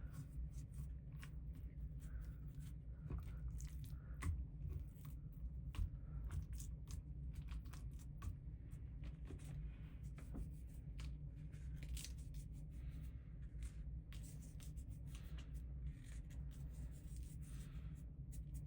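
Irregular light clicks and short scraping, rustling sounds, as of small objects being worked by hand, over a steady low rumble.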